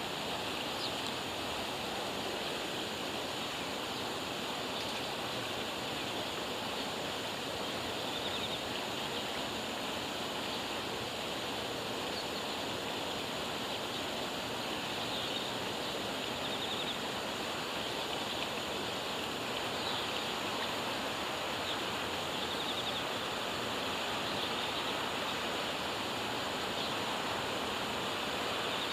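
Steady outdoor ambience: an even rushing like flowing water, with a continuous high-pitched hum above it and a few faint short chirps.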